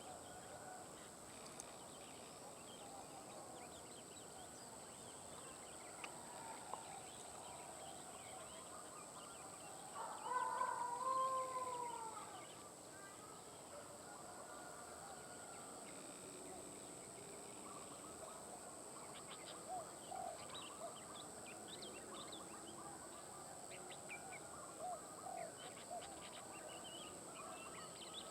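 Faint outdoor bird calls: scattered short chirps and notes, with one louder, longer call about ten seconds in that rises and then falls in pitch over about two seconds. A steady high whine runs underneath.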